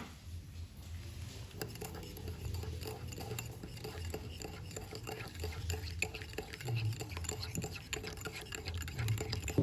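Light clinking and scraping of kitchen utensils against dishes, a run of many small quick ticks over a steady low hum.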